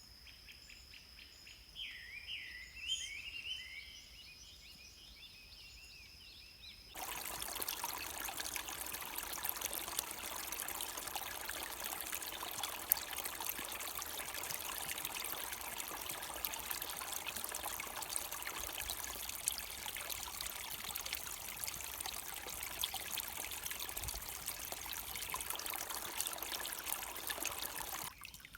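Small birds chirp briefly over a steady high tone. About seven seconds in, the sound cuts abruptly to a river or stream flowing and splashing, a dense steady rush of water that stops suddenly near the end.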